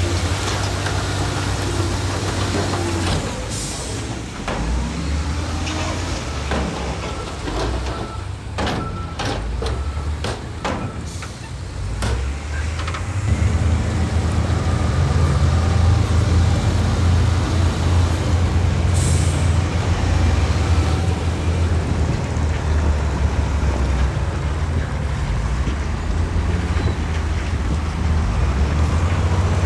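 Heavy diesel construction machinery running with a deep, steady engine rumble. A run of sharp clanks comes about 8 to 12 seconds in, and the engine grows louder from about 13 seconds. Two short hisses sound, one early and one around the middle.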